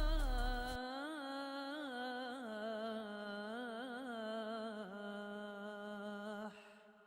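A single voice chanting or humming a long, slow melodic line with ornamental turns and no clear words, without instruments. It fades out about six and a half seconds in.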